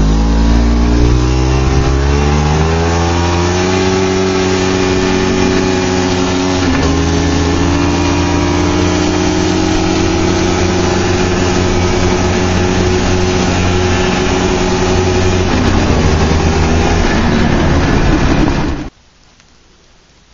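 Car engine rising in revs over the first few seconds as the car accelerates, then running steadily at speed, with a small change about seven seconds in. The sound cuts off suddenly near the end.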